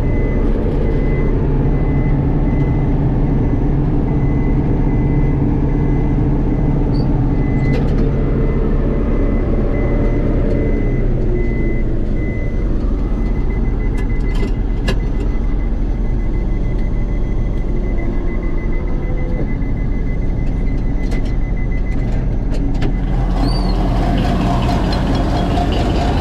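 Don-1500B combine harvester running steadily under load while threshing barley, a continuous engine and machinery drone heard from the cab. A high-pitched repeated beep sounds over it and stops a few seconds before the end, and the sound brightens after that.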